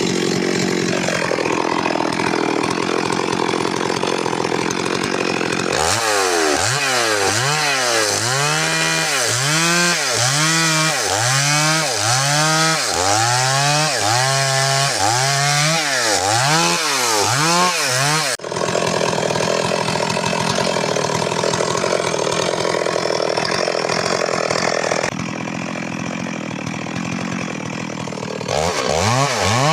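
Stihl MS 382 two-stroke chainsaw running hard through wood. Its pitch swings up and down about once a second for a stretch in the middle and again near the end, with steadier running between, and breaks off abruptly about 18 seconds in.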